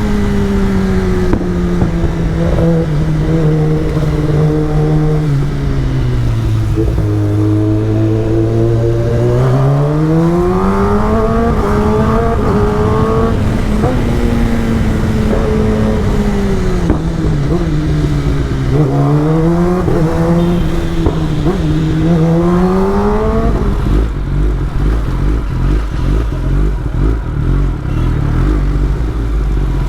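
Kawasaki ZX-10R inline-four engine under way, its revs falling and climbing several times as the bike slows and accelerates. Near the end the engine note drops out, leaving a low, uneven rumble.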